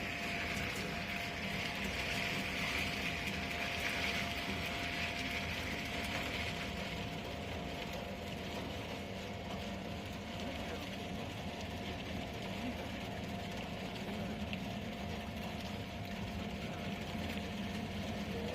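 Electric meat grinder running steadily, a continuous motor hum with a steady whine; a higher grinding hiss fades out about six seconds in.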